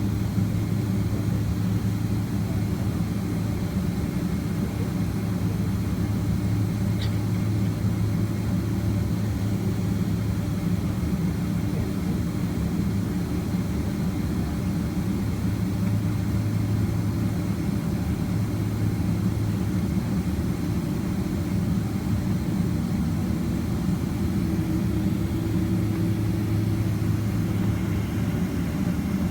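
Boeing 767-300ER cabin noise at a window seat: the twin jet engines run steadily at low power, a constant low drone with no spool-up.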